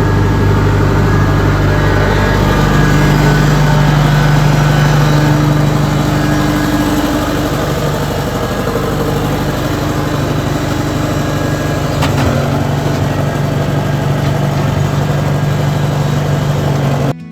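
An engine running steadily, a little louder from about two to seven seconds in, with a single click about twelve seconds in; it cuts off abruptly just before the end.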